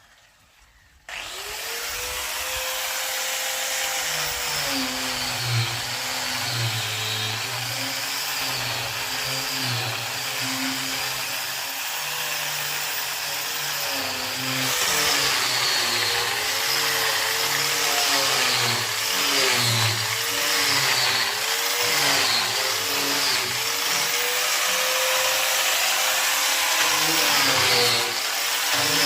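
A handheld electric power tool starts about a second in and runs on, working wood. Its motor pitch keeps dipping and recovering as it bites under load.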